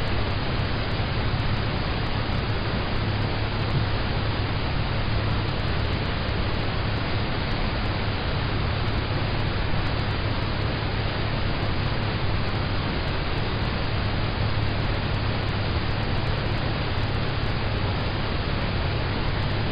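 Steady rain on a car's roof and windows, heard from inside the cabin: a dense, even hiss with a low rumble beneath it.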